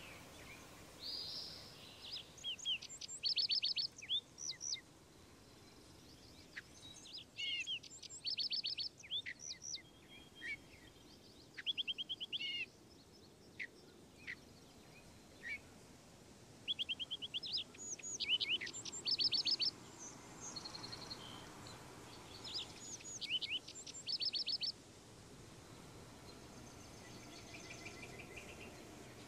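Songbirds singing: repeated short phrases of quick, high chirps and trills, in bouts with short pauses between, over a faint steady outdoor background.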